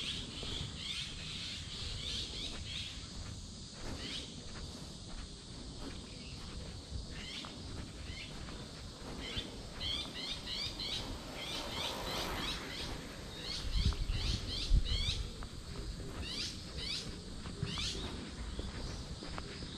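Birds chirping in quick series of short high notes, with a few low thumps about two-thirds of the way through.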